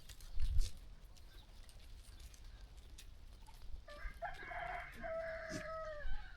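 A rooster crows once, about four seconds in, in a single pitched call lasting about two seconds. Near the start there is a brief low rumble.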